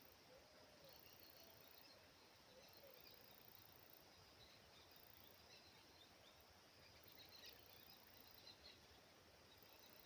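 Near silence: faint outdoor ambience with a few soft, high chirps scattered through it.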